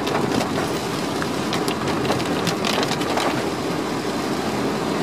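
Heavy rain hitting a car's roof and windscreen, heard from inside the car: a steady hiss with scattered sharper drop hits, over the car's road noise.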